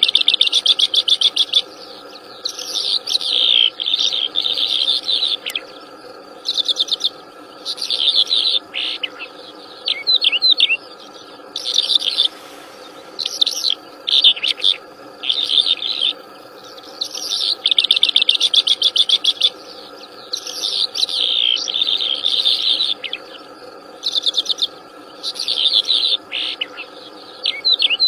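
Wild songbird singing in repeated quick, chattering trilled phrases of a second or two each, separated by short pauses, over a steady insect drone.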